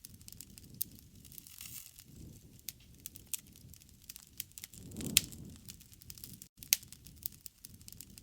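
Wood fire crackling: a low, steady rush of flames with frequent sharp pops and snaps, and a louder pop with a brief swell of flame about five seconds in.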